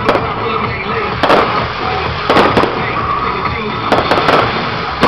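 Fireworks shells bursting, about six sharp bangs roughly a second apart, over music playing throughout.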